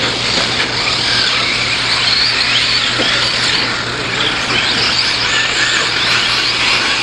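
Several radio-controlled 4WD short course trucks racing at once, their motors whining up and down in pitch with the throttle over a steady hiss of tyre and track noise.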